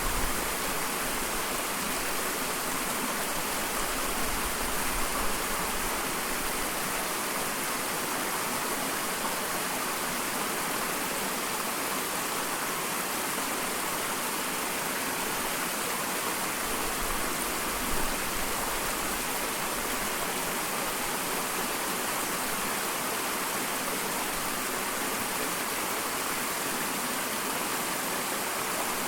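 Small waterfall: water falling and splashing in a steady, even rush, with a few faint low rumbles.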